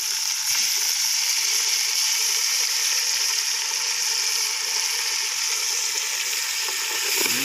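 Onions and green chillies frying in hot oil in a steel pot, a steady sizzle, as tomatoes are added by hand.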